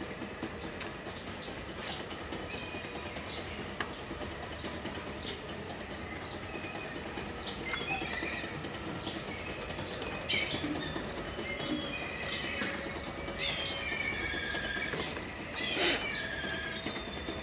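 Birds chirping over and over in the background, in short high-pitched calls, busier in the second half. A sharp clink sounds once near the end.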